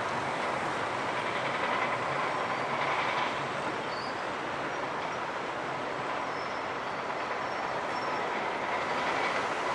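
Steady noise of a heavy vehicle running, continuous with no breaks or sharp sounds and only slight swells in level.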